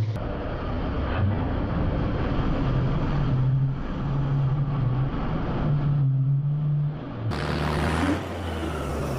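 Mahindra Arjun tractor's diesel engine running while pulling a trolley, its note stepping up and down as the revs change. The sound turns brighter and hissier about seven seconds in.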